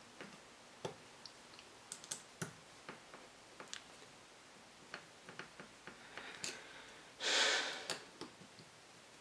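Irregular light clicks and taps of small metal engine parts and hand tools being handled on a workbench. Near the end comes a short rush of noise lasting under a second, louder than the clicks.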